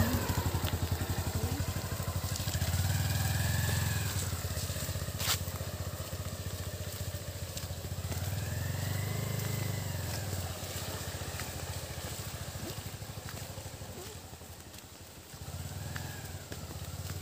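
Motorcycle engine running at low speed, its pitch rising and falling as it revs up and eases off twice, then dropping and picking up again near the end. A single sharp click about five seconds in.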